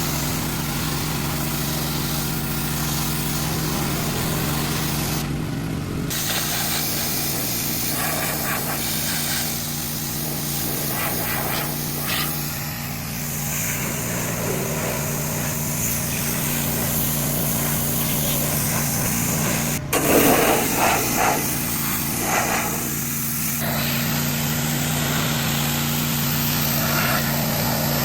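Small engine running steadily under a hiss of spraying water, the hiss changing in strength a few times, with a few louder knocks about twenty seconds in.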